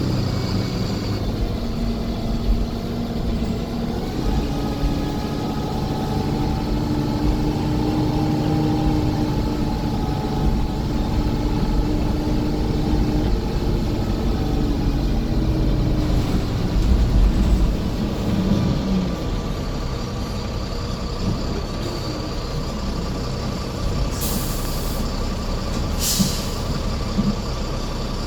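Scania coach's diesel engine running under way, its note rising and falling, with a steady whine joining in about two-thirds through. Near the end come two short hisses of air, about two seconds apart, typical of the coach's air brakes.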